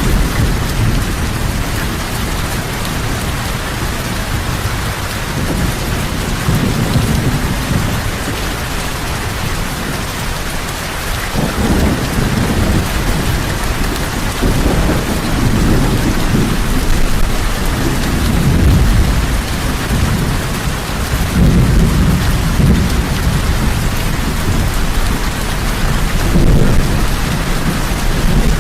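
Heavy rain falling in a steady hiss, with low rolling rumbles of thunder that swell and fade several times, more often in the second half.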